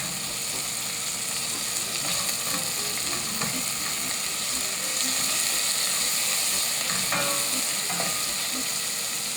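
Chopped onions sizzling steadily in smoking-hot olive oil in a pan, searing and starting to caramelize, with a few faint knocks of stirring.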